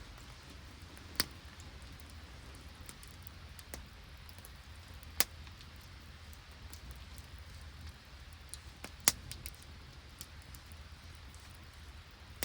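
Open wood campfire crackling, with three sharp pops spread a few seconds apart and fainter ticks between them over a low steady rumble.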